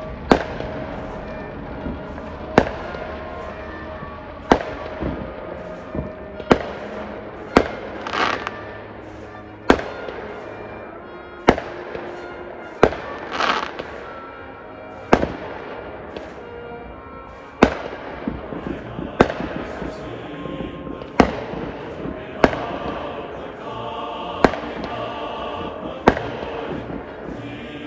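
Professional aerial fireworks bursting, a sharp boom every one to two seconds, with two longer, brighter bursts about a third and halfway through. Live band music plays underneath, clearer near the end.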